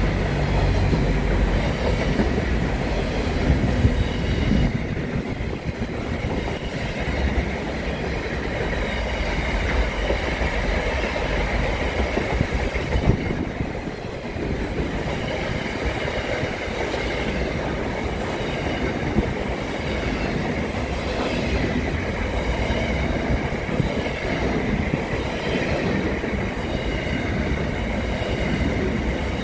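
Container freight train wagons rolling past close by: continuous steady rumble of wheels on rail with clattering, and a faint high whine over it.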